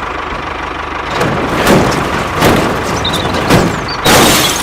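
Steady low engine-like hum, like a small motor running. From about a second in, several short, loud rushing noises break over it, the loudest near the end.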